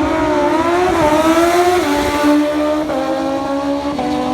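Racing motorcycle engine running at high revs, its pitch stepping down three times as it shifts gears.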